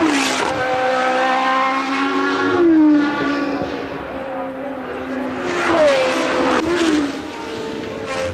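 Early-1980s Formula One race cars' engines running at high revs as cars go by, the engine note dropping in pitch several times: at the start, near three seconds, and twice near six and seven seconds.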